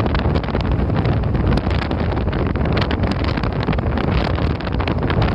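Strong wind buffeting the microphone with a loud, continuous rumble, the gusty wind that comes ahead of a typhoon.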